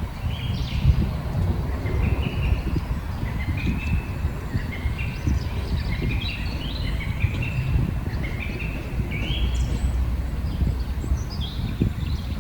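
Birds calling over and over, short high notes, some stepping up or down in pitch, over a steady low rumble.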